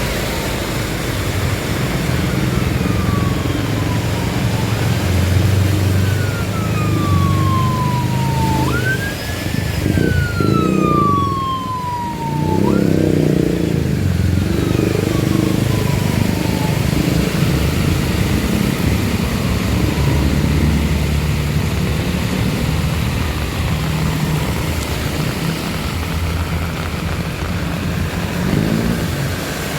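A vehicle siren wailing in repeated sweeps, each jumping up in pitch and then falling slowly over a couple of seconds. It is loudest about ten seconds in and then fades. Under it runs a steady rumble of motorcycle and car engines in traffic.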